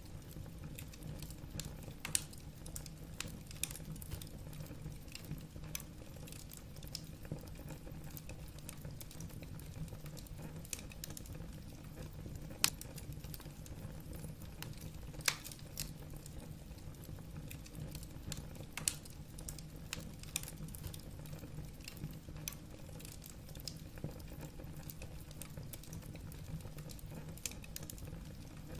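Wood fire burning in a fireplace: logs crackling and popping in sharp, irregular clicks over a steady low rumble of the flames.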